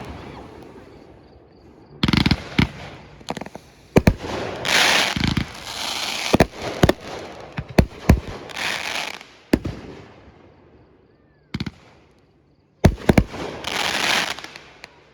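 Fireworks display: aerial shells going off in sharp bangs, about a dozen spread unevenly, several of them followed by a second or so of dense crackling hiss.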